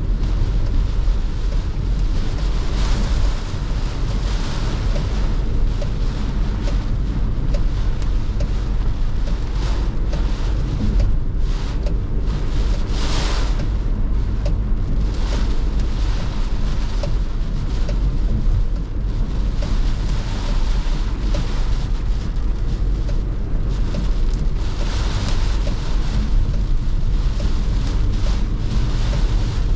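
A car driving on a wet expressway in heavy rain: a steady low rumble of road and engine under a continuous hiss of rain and tyre spray, with a louder rushing surge about thirteen seconds in.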